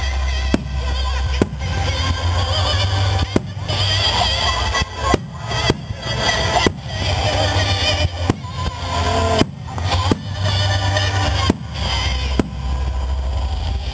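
Fireworks display set to music: aerial shells bursting with sharp bangs at irregular intervals, about ten in all, over music with a steady bass line.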